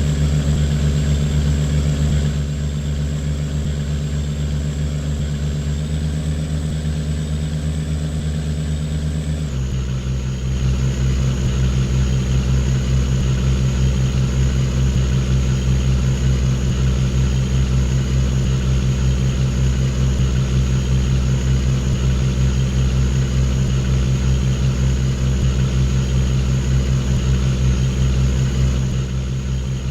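Boat engine running steadily, then dropping to a lower speed about nine seconds in, with a faint high whine that drops along with it; it then holds steady at the new pitch.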